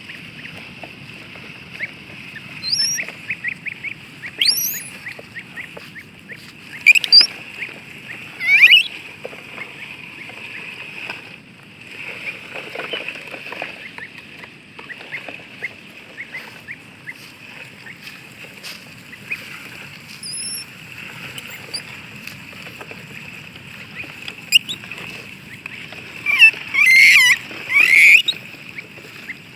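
Ducklings peeping: repeated short rising peeps, loudest about 7 and 9 seconds in and in a cluster near the end, over a steady high-pitched background buzz.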